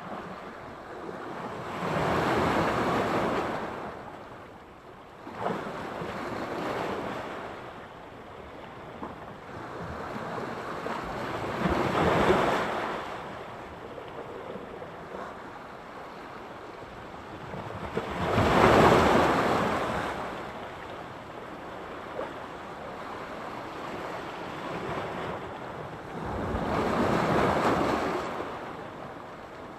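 Sea surf: waves breaking on the shore and washing back, swelling and fading every several seconds, the biggest wave about nineteen seconds in.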